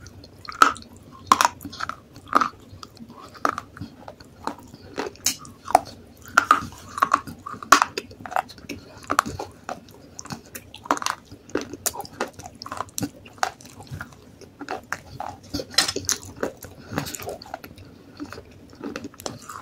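Close-up crunching and chewing of hard baked clay pot pieces: sharp, irregular crunches, a few each second, as bits are bitten off and ground between the teeth.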